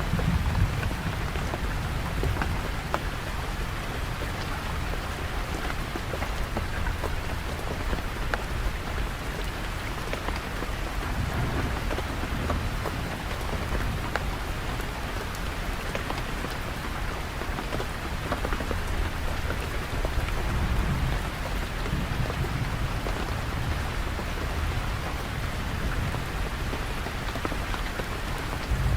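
Steady rain falling, with a low rumble underneath that swells now and then.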